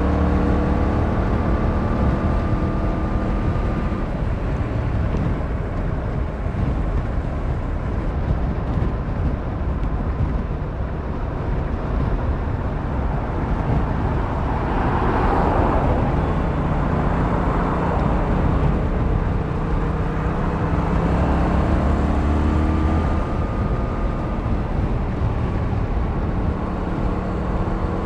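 Yamaha MT-07's 689cc twin-cylinder engine running under way at road speed, mixed with wind and road noise. Its pitch rises in the first few seconds and again near the end, and a broad swell of rushing noise comes about halfway through.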